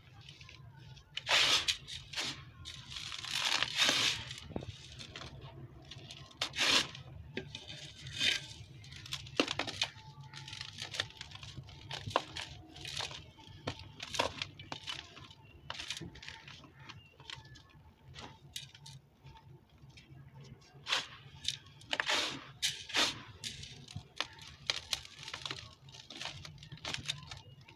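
Dry, dusty red dirt and sand-cement crumbling: irregular crisp crackles and crunches, with louder bursts in the first few seconds and again about three-quarters through.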